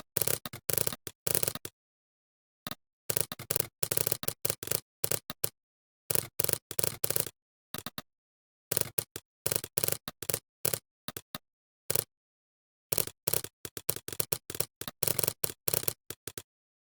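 Computer keyboard typing: bursts of rapid keystrokes lasting a second or two, with short pauses between them and dead silence in the gaps.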